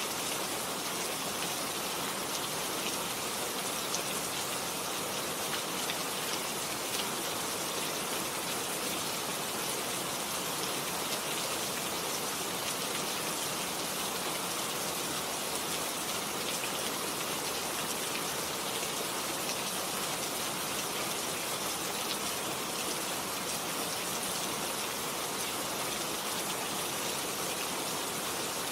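Steady rain falling: an even hiss of many drops hitting a surface, never letting up.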